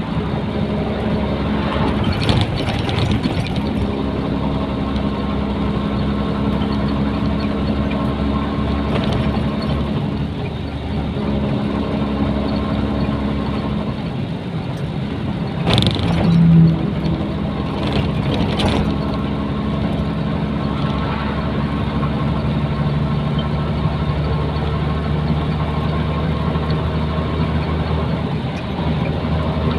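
Nissan Diesel container truck's diesel engine running as the truck drives, heard from the cab, its engine note shifting in pitch a few times. A few short clatters, the loudest a brief louder sound about 16 seconds in.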